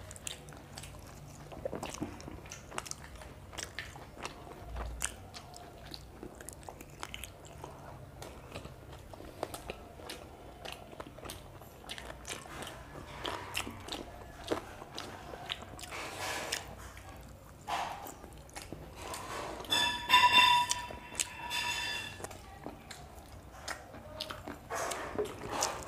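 Two people chewing chicken curry and paratha, with wet mouth sounds and many small clicks. A brief high-pitched tone with overtones sounds about twenty seconds in.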